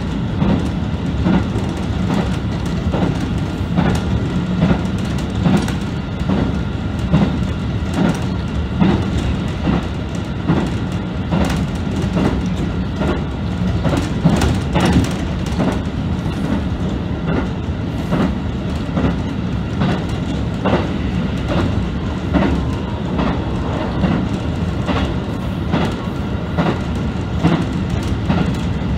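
Diesel railcar running at speed, heard from inside the leading car: a steady engine drone under a quick, uneven clickety-clack of wheels crossing rail joints.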